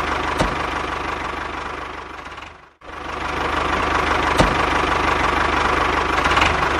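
Small machine running steadily with a fast, even ticking rattle. It fades and cuts out a little before halfway, then starts up again and keeps running.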